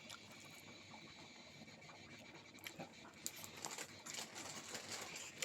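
Faint scattered clicks and scratches of someone eating a meal of rice and curry from a plate, growing more frequent about halfway through.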